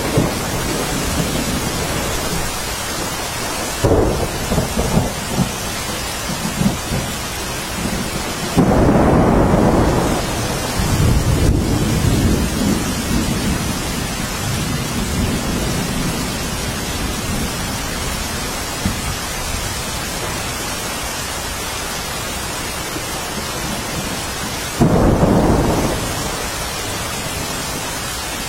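Steady rain hissing, with thunder breaking in three times: a short rumble about four seconds in, the loudest clap and roll about nine seconds in, and another sudden clap near the end.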